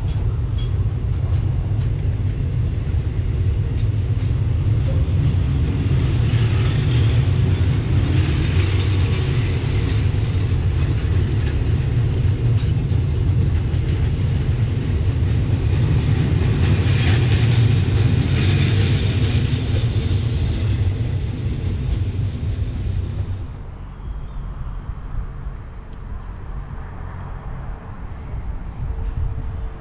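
A freight train rolling past at close range: a steady low rumble with rushing wheel-on-rail noise that swells twice. About three quarters of the way through the noise drops away suddenly, leaving a quieter rumble and a few faint high chirps.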